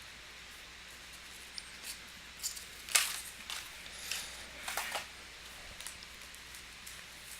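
Trading card packs and cards being handled: scattered crinkles and short clicks of foil wrappers and card stock, with the loudest crackle about three seconds in and a cluster of them a second or two later.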